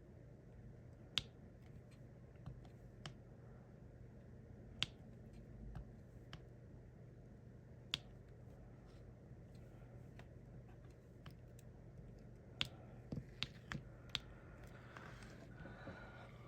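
Scattered sharp little clicks and taps, about a dozen at irregular times with a small cluster near the end, over a faint steady low hum: diamond-painting drills being picked up with a drill pen and pressed onto the canvas.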